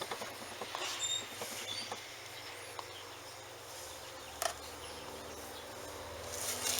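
Faint scattered clicks and rustling handling noise, with a sharper click about four and a half seconds in.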